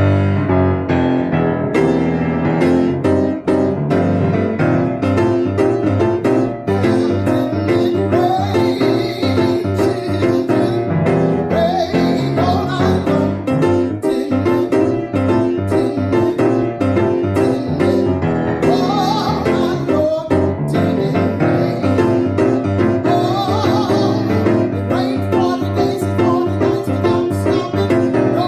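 Piano playing steady rhythmic chords, with a singing voice coming in over it in phrases.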